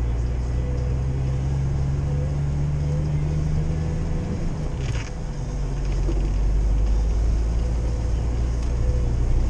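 Old Jeep's engine and drivetrain droning steadily inside the cabin while driving on snow-covered road; the engine note rises slightly, then drops off about four to five seconds in, with a single short click at the same time.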